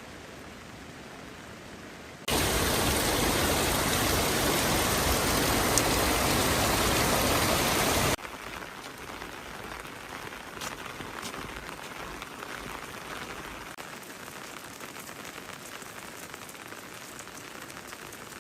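Rain falling with a steady hiss. About two seconds in, a much louder stretch of rain noise starts abruptly and cuts off just as suddenly around eight seconds in. After it the rain is softer, with scattered drips.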